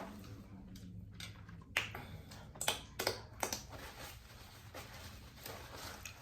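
Close-miked chewing and lip smacking while eating, a few sharp wet clicks, bunched together between about two and three and a half seconds in.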